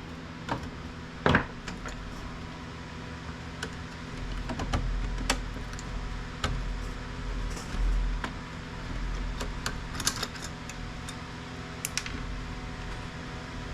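Scattered clicks and knocks of plastic printer parts being handled and worked on during disassembly, with one loud knock about a second in, over a steady low hum.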